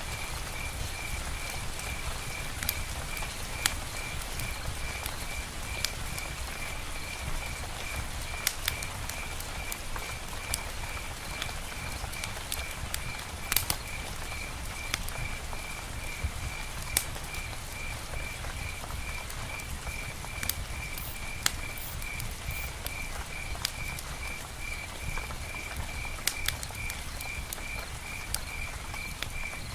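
Rain-and-campfire nature ambience: a low, steady rumble with scattered sharp ticks and pops, under an animal's high chirping call repeated evenly at about two to three chirps a second.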